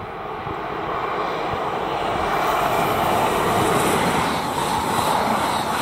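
Express passenger train passing through the station at speed, its rumble rising as it approaches and then holding loud as the coaches rush by.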